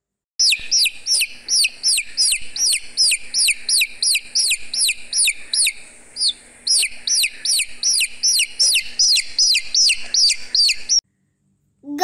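A brood of young chicks peeping: a fast, regular run of high, downward-sliding peeps, about four a second, with a brief pause partway through, stopping suddenly near the end.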